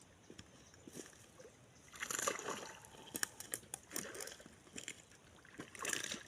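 Water splashing and sloshing in two bursts, about two seconds in and again near the end, with scattered clicks between.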